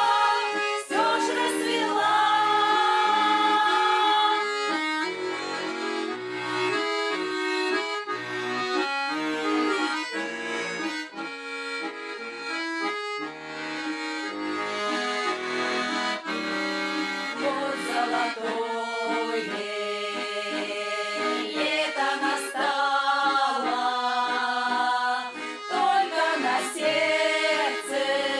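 Folk-style ensemble music led by an accordion playing melody and chords, apparently an instrumental passage of the song.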